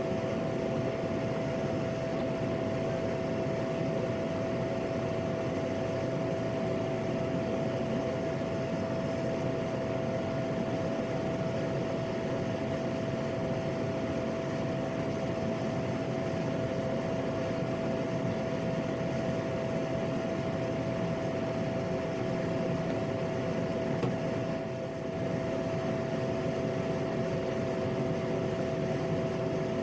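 PAC 750XL's single turboprop engine running with a steady drone and two steady tones over a broad rush, heard from the cockpit. It dips slightly for a moment about 25 seconds in.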